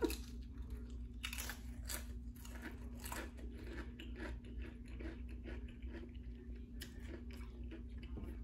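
Close-up chewing of crunchy potato chips: irregular sharp crunches, strongest in the first few seconds and lighter toward the end.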